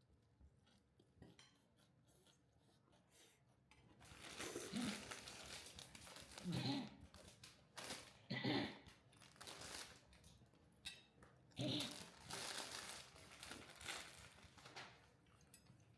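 Irregular crinkling and rustling from something being handled, starting about four seconds in, with a few sharper crunches.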